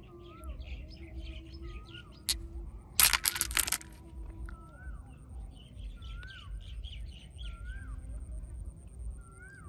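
Birds calling outdoors: one repeats a short rising-and-falling note every second or so over softer twittering. About three seconds in comes a short, loud clatter of sharp clicks.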